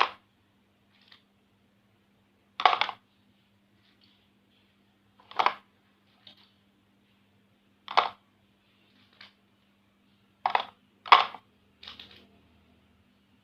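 Plastic markers clattering as they are dropped or set down, a short clatter every two to three seconds, with three coming close together near the end.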